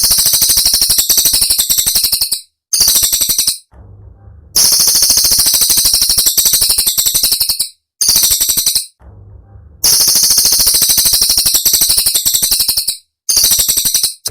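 Cililin songbird singing its sharp 'tembakan' phrases: very fast, high-pitched rattling trills in a long burst of about three seconds followed by a short burst, the pattern repeating three times, as in a looped bird-song training recording.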